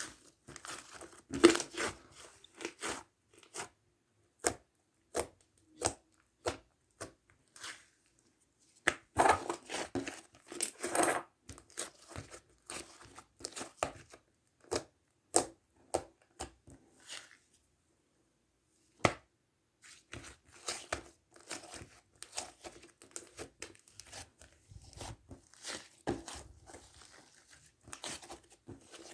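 Mint sherbet slime being squeezed and stretched by hand, giving irregular sharp pops and crackles. There is a louder flurry about nine to eleven seconds in and a short pause just past halfway.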